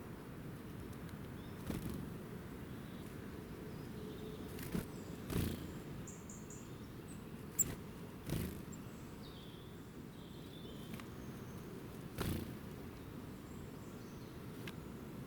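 Outdoor ambience with a steady low rumble, a handful of soft thumps and one sharp click, and a few faint, short high bird chirps in the middle.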